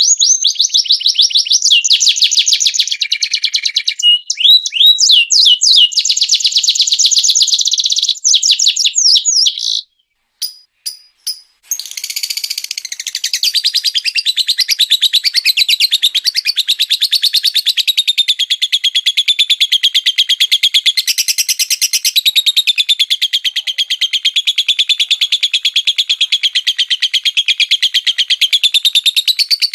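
Small caged songbird singing rapid-fire trills, very fast strings of high notes with a few swooping notes among them. Near the middle the song breaks off for about two seconds with a couple of clicks, then resumes as one long unbroken fast trill that wavers in pitch.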